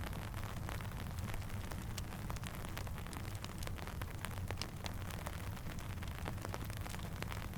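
Steady rainfall: an even hiss over a low rumble, with many small sharp ticks scattered through it.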